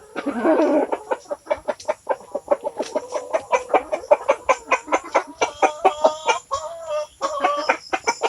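A bird calling in a fast, even series of short, harsh notes, about four or five a second, after a brief rustle at the start.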